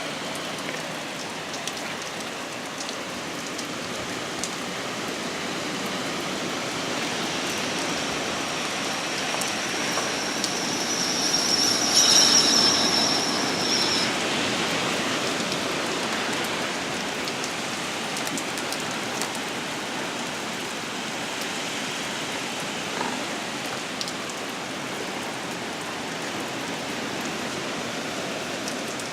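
Heavy rain falling steadily. It swells to its loudest about twelve seconds in, with a faint high-pitched tone coming and going around the middle.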